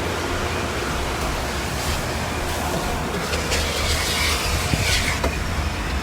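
Car wash noise: a steady low mechanical rumble under an even hiss, the hiss growing louder for a while from about three and a half seconds in.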